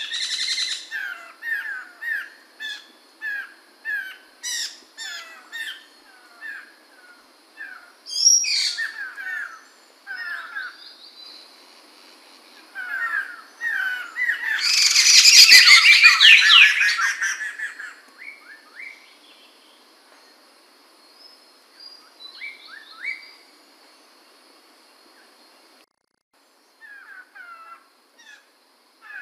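Poksay mantel laughingthrush calling: a run of short, repeated whistled notes about two a second, then, near the middle, a loud burst of fast chattering song lasting a few seconds, followed by a few scattered notes.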